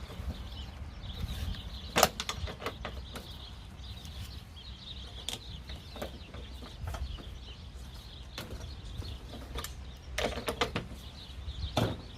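Scattered metallic clicks and knocks of hand tools and parts as a push mower wheel is fitted back on its axle, with a cluster of knocks near the end.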